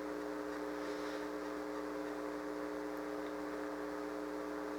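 Steady hum of several held tones over a faint hiss, unchanging throughout.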